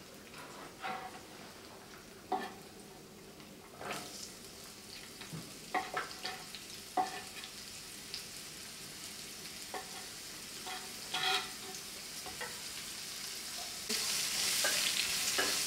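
Scattered knocks and scrapes of a knife on a wooden cutting board as chopped onion and garlic are pushed into a frying pan. Near the end a steady sizzle of the onion and garlic frying in sunflower oil sets in suddenly, stirred with a wooden spatula.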